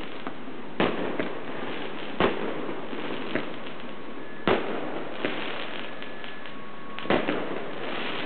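Fireworks going off: about five sharp bangs, two of them close together near the end, over a continuous crackle of more distant fireworks.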